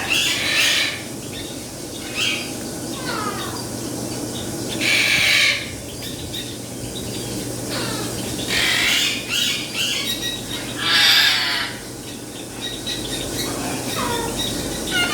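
Parrots squawking: four loud, harsh squawks a few seconds apart, with shorter falling whistles and chirps between them.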